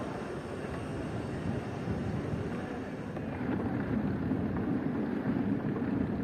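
Ocean surf washing on the shore, with wind on the microphone; the rush swells louder a little past halfway.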